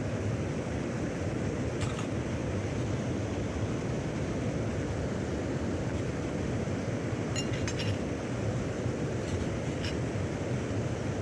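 Steady rushing of a mountain stream, with a few light clinks: one about two seconds in, a quick cluster of them past the middle, and a couple more near the end.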